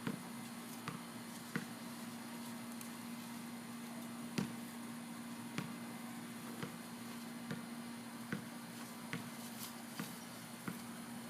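A series of short, light knocks or taps, about one a second at uneven spacing, over a steady low hum.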